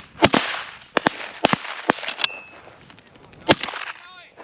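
Several hunters' shotguns firing a ragged volley of about eight shots over three seconds, uneven in spacing and loudness, at a flushed rooster pheasant.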